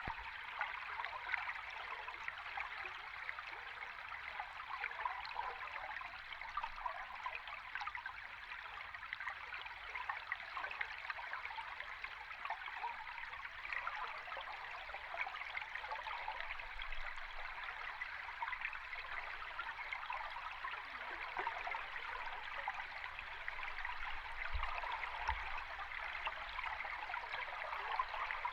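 River stream recorded underwater: a steady rush of flowing water with a fine bubbling, crackling texture.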